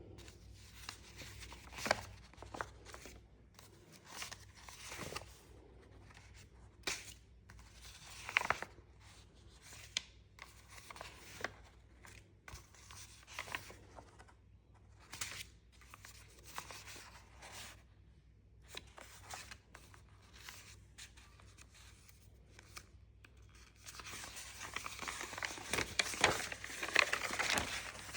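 Paper being cut and handled for a papercraft model: short separate snips and rustles, then a busier stretch of crinkling near the end.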